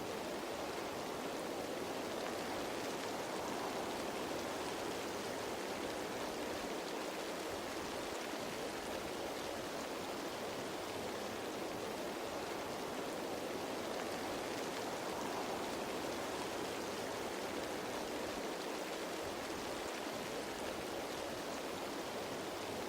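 Steady rain falling on leaves, an even hiss with no separate drops standing out.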